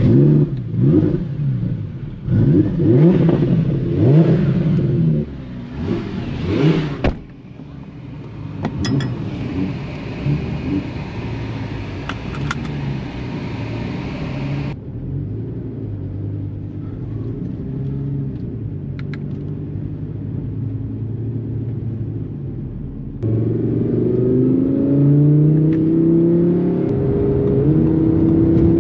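Twin-turbocharged Audi R8 V10 engine revving in quick blips, then running steadily at low revs, then accelerating with its pitch climbing over the last few seconds.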